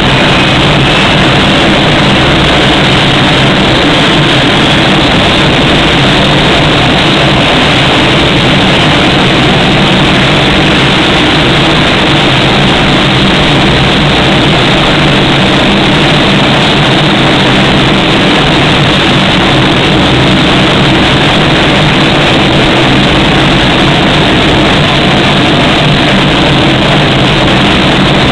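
Allison T56 turboprop engines of a Lockheed P-3C Orion running steadily at very close range, a continuous loud drone with a low hum under it.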